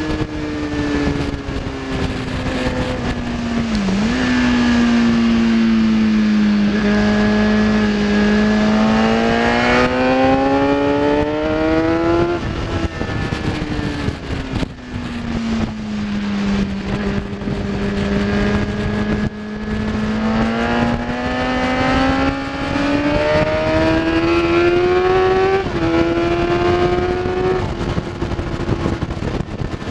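Kawasaki ZX-10R's inline-four engine heard from on board at track speed, over wind noise. Its pitch falls for the first few seconds, climbs steadily under acceleration, drops sharply at a gear change about twelve seconds in, then climbs again and steps down once more near the end.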